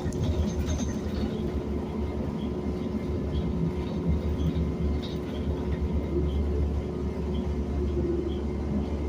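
City bus, heard from inside, running: steady low engine drone and road rumble with a faint steady whine, and faint regular ticking about twice a second.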